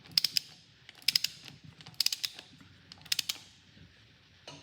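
Ratchet torque wrench working a cylinder head bolt: four quick runs of pawl clicks about a second apart as the handle is swung back and forth, then a single sharp click at the very end.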